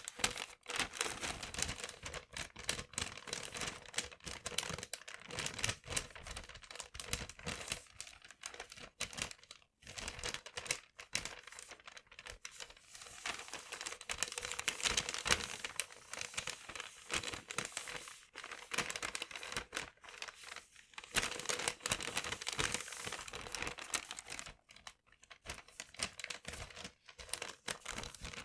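Paper being crinkled and rustled by hand, a dense run of crackles with a few brief pauses.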